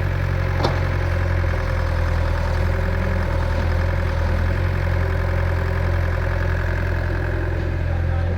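Tractor diesel engine running steadily at low revs, a constant deep hum, with a single brief click about half a second in.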